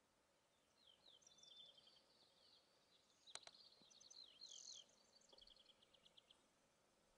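Faint songbird song: a run of quick high chirps, down-slurred notes and rapid trills, with a single sharp click about three and a half seconds in.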